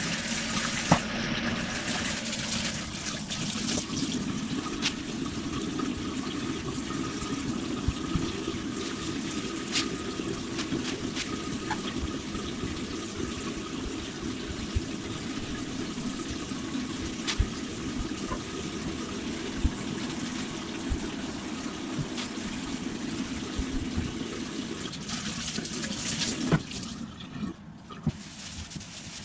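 Water running steadily, with scattered clinks and knocks over it; the running stops about 26 seconds in.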